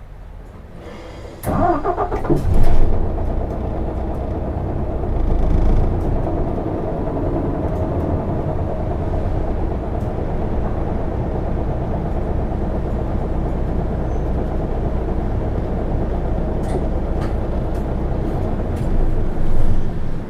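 The bus's six-cylinder diesel engine starting: a short burst of starter cranking as it catches, then running steadily, swelling a little about five seconds later and again near the end.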